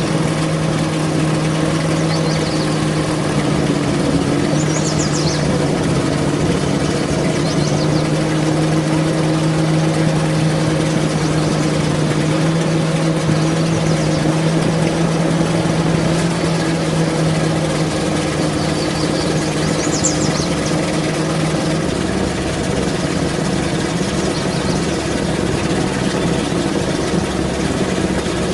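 Truck engine running steadily at an even speed, with a couple of brief faint high chirps about five and twenty seconds in.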